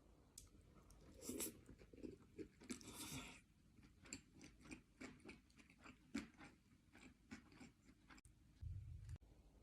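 A person chewing sushi close to the microphone: an irregular run of short mouth clicks, with a longer, louder burst about three seconds in.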